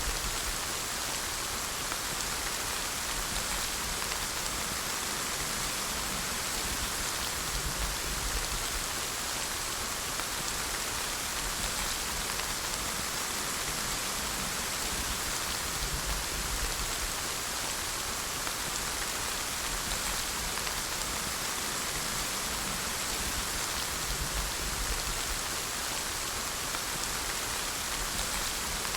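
Steady rainfall: a dense, even hiss of rain falling on surfaces, with no let-up or change.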